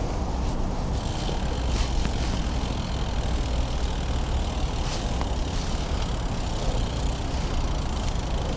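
Steady low rumble of street traffic, with vehicle engines running and idling.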